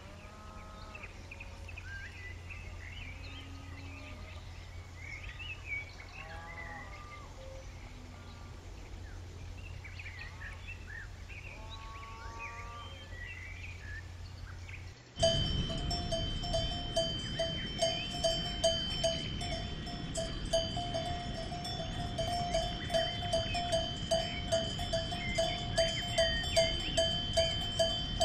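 Cattle lowing a few times over bird chirps. Then, after a sudden change, a cowbell clanks steadily about twice a second, and this is the loudest part.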